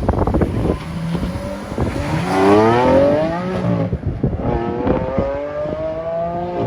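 Sports car engine accelerating hard away. A few sharp cracks come at the start, then the engine note climbs steeply, drops about four seconds in as it shifts gear, and climbs again.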